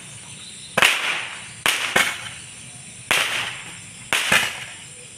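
Small fireworks going off in a series of sharp bangs, about six of them roughly a second apart, each trailing off briefly.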